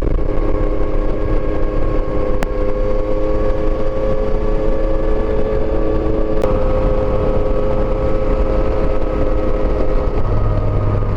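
Yamaha Tracer motorcycle engine running at a steady cruise while riding, its note holding almost level, over a constant rush of wind and road noise.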